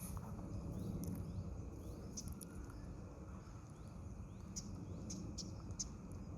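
Short, high, thin bird calls, scattered and coming more often in the second half, over a steady low rumble of background noise.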